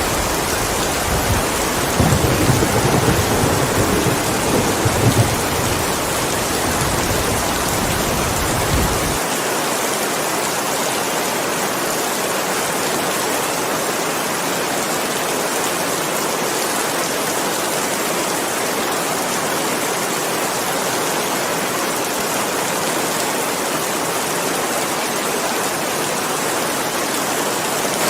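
Steady rain hiss with a low rumble of thunder that starts about two seconds in and cuts off suddenly about nine seconds in.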